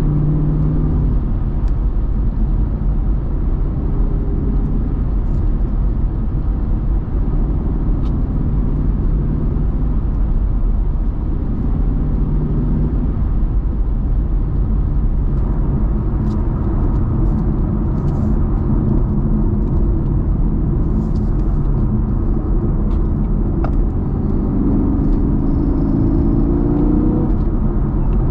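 Muscle car engine running steadily under way, with a low exhaust rumble and road noise. Near the end the engine note climbs as the car accelerates.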